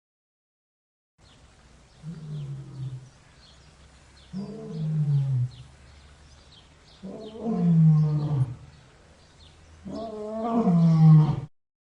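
Four deep calls from a large animal, about two and a half seconds apart, each falling in pitch and each louder than the last.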